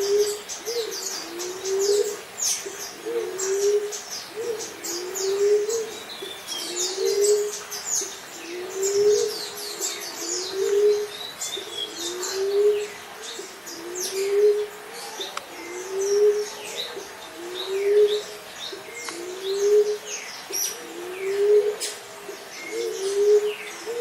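Emerald dove calling: a low, soft coo repeated steadily, about one every second and a quarter. Many higher chirps of other small birds sound above it.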